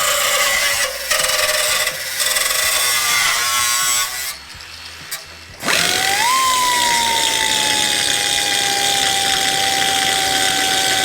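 Handheld power tool working on sheet metal, briefly easing off twice, then stopping about four seconds in. It starts again just before halfway, its whine rising quickly and settling into a steady high tone as it runs on.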